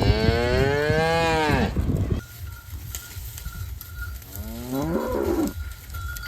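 Cattle mooing twice: a long, loud moo in the first two seconds that rises and then falls in pitch, and a shorter, fainter moo about five seconds in, over a steady low rumble.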